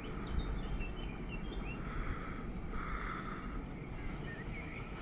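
Small birds chirping in short, quick calls over a steady low rumble of outdoor background noise.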